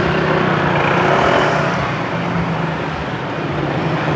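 Road traffic: motor vehicle engines running with a steady low hum, one vehicle passing close, swelling about a second in and then fading.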